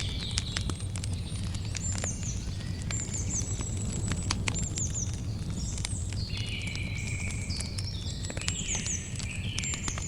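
Campfire crackling, with many sharp pops over a steady low rumble, while birds and insects chirp in the background in short, repeated high calls.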